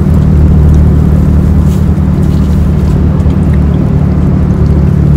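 Car engine idling, a steady low drone heard from inside the cabin.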